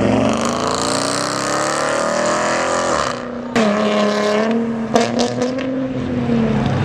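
Car engine accelerating hard, its pitch climbing for about three seconds, then a brief break and a sharp pull again. A few sharp cracks sound around five seconds in, and the engine note eases off near the end.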